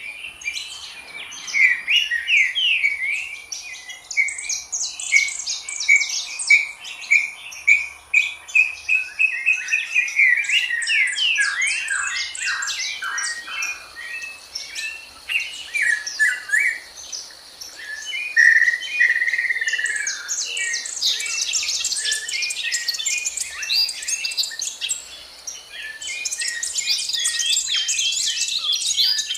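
Several songbirds singing at once, a busy mix of quick chirps, trills and short whistles that grows densest in the last third, over a faint steady high-pitched hum.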